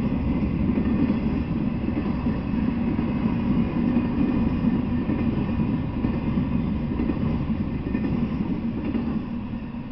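Intermodal freight train rolling past, a steady rumble of steel wheels on rail as flatcars loaded with semi trailers go by. The rumble starts to ease off near the end.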